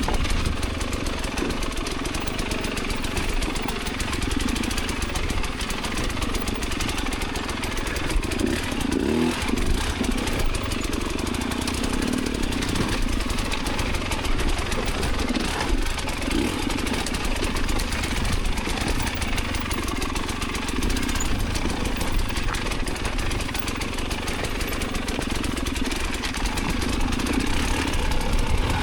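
Enduro dirt bike engine running, under a steady rush of noise across the whole range.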